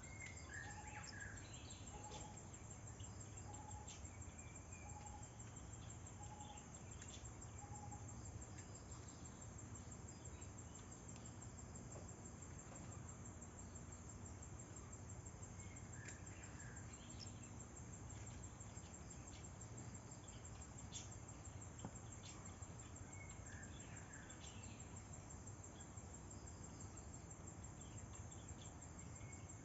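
Faint outdoor nature ambience: a steady, high-pitched insect trill, like crickets, runs throughout. During the first several seconds a bird gives a string of short, evenly spaced notes, and brief bird chirps come now and then.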